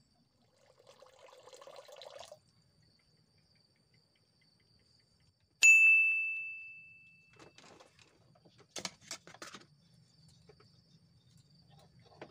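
A small metal bell struck once, ringing out clearly and fading over about a second and a half. A faint, steady, high insect whine runs underneath, and a few sharp clicks follow later.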